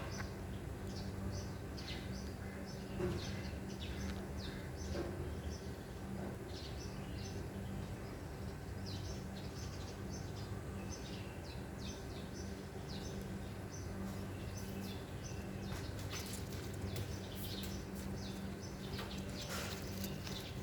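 Small birds chirping: short, high chirps in quick runs, over a steady low hum.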